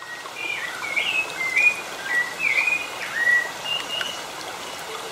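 Birds calling: a string of short, swooping whistled chirps, several in the first three and a half seconds, then a few higher notes, over a steady background hiss.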